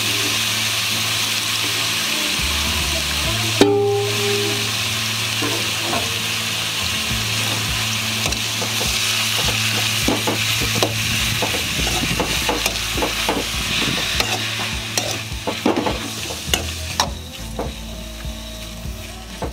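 Oyster mushrooms with onions sizzling in an aluminium pan while a steel spoon stirs them, scraping and clicking against the pan. There is a sharp knock a few seconds in. The sizzle thins in the second half, where the spoon's scraping comes forward.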